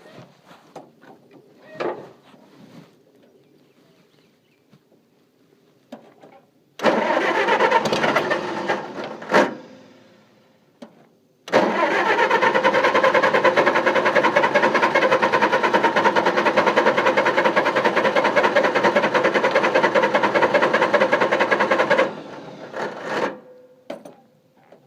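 An engine being cranked over without starting: a first try of a few seconds that dies away, then a long crank of about ten seconds that stops suddenly. Before that, a few small knocks and clicks.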